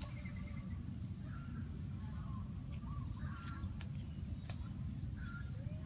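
Outdoor ambience: a steady low rumble with short bird calls every second or so and a few light clicks.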